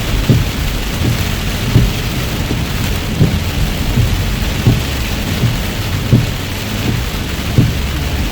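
Rain falling on a moving car, heard from inside, over a low road rumble, with the windshield wipers giving a low thump about every one and a half seconds.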